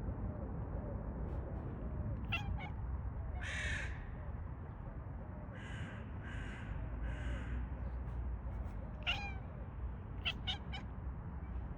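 A crow cawing three times in quick succession, with a few other short calls and chirps around it over a steady low outdoor rumble.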